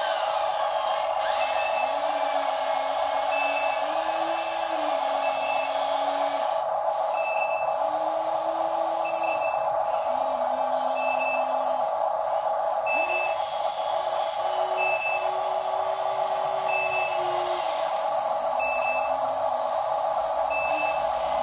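Toy RC dump truck running with a steady electric whine while its sound unit gives short high reversing beeps every second and a half to two seconds.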